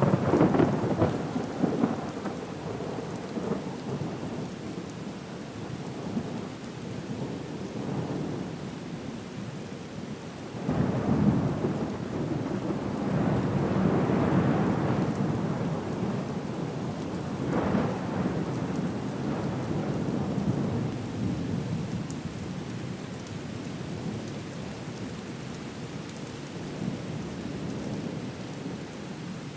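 Steady rain with rolling thunder: a rumbling peal right at the start, another long swell about 11 seconds in, and a sharper one around 17 seconds, fading to steady rain near the end.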